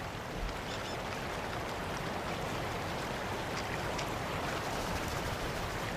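A squirrel gnawing at a walnut shell: a steady, rasping scrape with a few faint clicks.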